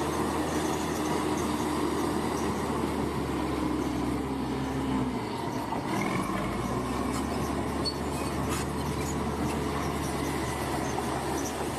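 Bulldozer's diesel engine running steadily, with the metallic squeal and clatter of its steel tracks. The engine note dips briefly about five seconds in.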